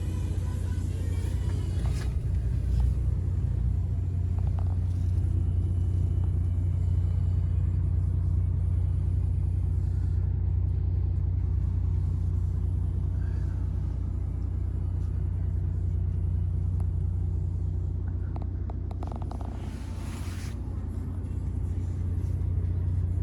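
MAN TGX 26.470 tractor unit's 470 bhp straight-six diesel engine idling steadily.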